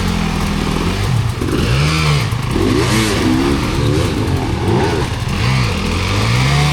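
Dirt bike engine revving up and falling back over and over, the throttle opened and closed in short bursts about once a second.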